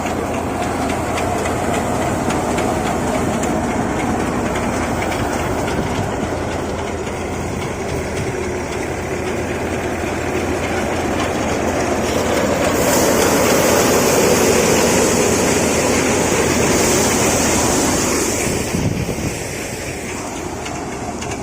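A heavy engine running steadily with a rhythmic clatter, growing louder with an added hiss from about halfway in until shortly before the end.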